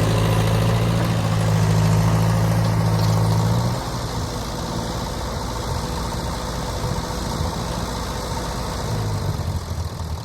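Ford N-series tractor's four-cylinder flathead engine running steadily, then dropping back to a quieter idle about four seconds in.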